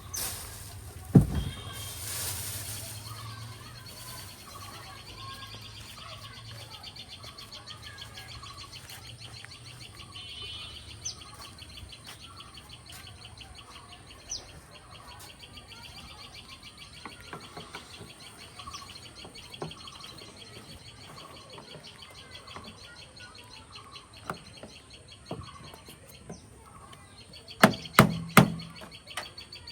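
Birds chirping in the background over a steady, high, rapidly pulsing trill. A sharp knock comes about a second in, and a quick cluster of loud knocks comes near the end.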